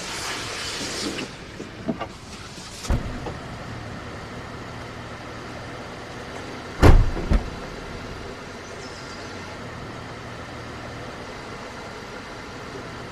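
Car engine running steadily, heard as a low hum, with a rustle in the first second, a few light knocks, and a heavy double thump about seven seconds in.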